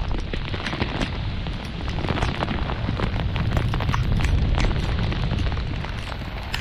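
Torrential thunderstorm rain pelting the action camera with dense sharp drop hits, over a continuous low rumble of thunder.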